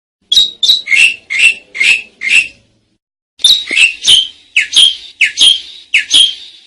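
Asian pied starling (jalak suren) calling loudly: a run of six quick notes, a pause of about a second, then a longer run of about nine notes.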